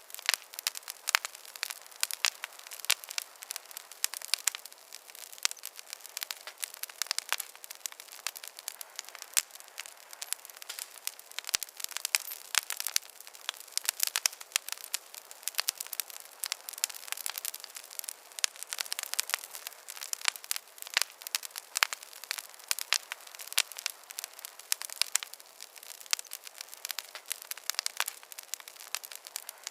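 Campfire burning with dense, irregular crackling: many sharp pops and snaps, several a second, over a faint hiss, with almost no low sound.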